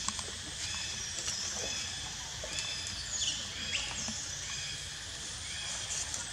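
Birds calling in a repeated pattern of short high chirps, with a couple of falling whistles about halfway through, over steady outdoor background noise.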